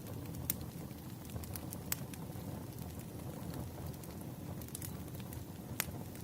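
Fireplace ambience: a steady low roar of burning logs with sharp pops and crackles scattered through it, the loudest near the end.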